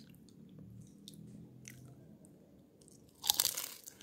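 A person chewing a crisp, brittle fried wonton, with faint scattered crunches and a louder crunch a little after three seconds in.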